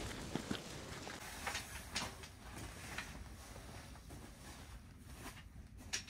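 Footsteps in snow: a few sparse, irregular crunches, the sharpest about two seconds in and near the end.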